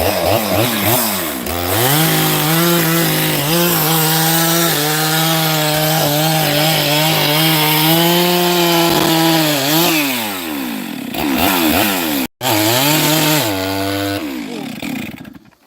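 Chainsaw revved up to full throttle about two seconds in and held at a steady high pitch for around seven seconds, then easing back. After a brief break it revs up once more, drops and fades out.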